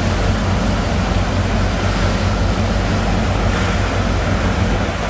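Sand-pump engine running steadily, with a constant rush of water and sand slurry through the pump.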